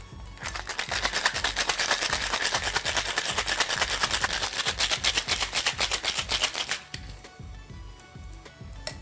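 Ice rattling hard and fast inside a cocktail shaker during a wet shake to chill an egg white, lemon and vanilla syrup mix. It stops abruptly about seven seconds in.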